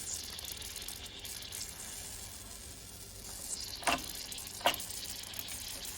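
Mamod SE1 toy steam engine's boiler heating, with a steady sizzling hiss of hot water and steam escaping from the top instead of dry steam, which the owner takes for too much water in the boiler. Two sharp clicks a little under a second apart, about four seconds in.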